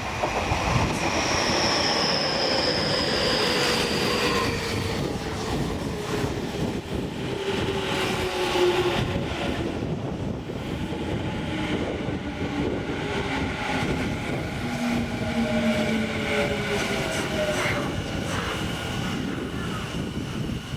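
Tokyu 5050-series electric train running into a station platform and slowing, with steady wheel and running noise and several whining tones that slowly fall in pitch as it brakes.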